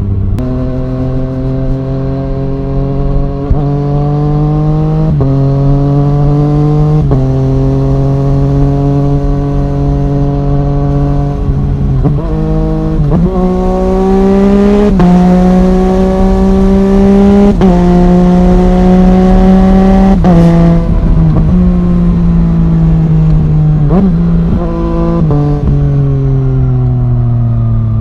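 Yamaha MT-09 three-cylinder engine through an Arrow Thunder full exhaust system under way. The revs climb and then step abruptly at several gear changes, and near the end the engine slows with a few short rev blips on downshifts.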